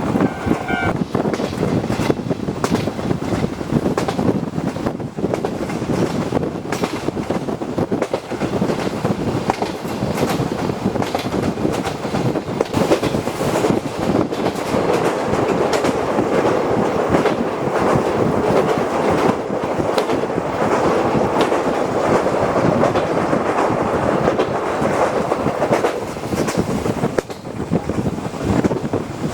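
Locomotive-hauled passenger coach running along the line, heard from inside the car: steady rolling noise with the wheels clacking over rail joints. A short high tone sounds about half a second in.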